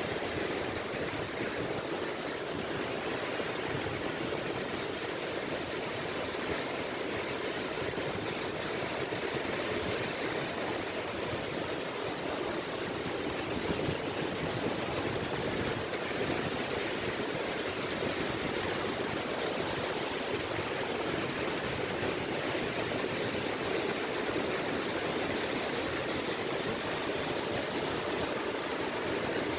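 Small waves lapping on a beach: a continuous, even wash of water without distinct breaking surges.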